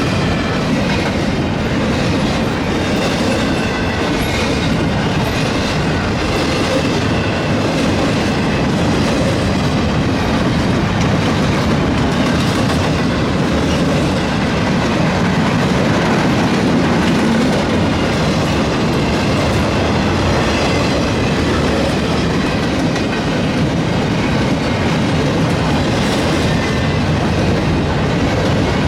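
A freight train rolling past at steady speed: the continuous rumble and rattle of its cars running over the rails.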